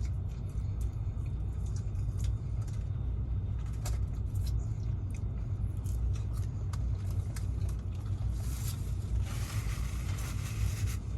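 Steady low rumble of a tractor-trailer's engine running, heard inside the cab, with scattered small clicks and a short stretch of rustling hiss near the end.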